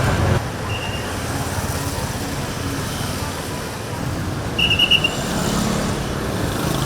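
Busy street ambience with steady road-traffic noise and faint background voices. A brief high-pitched sound stands out about five seconds in.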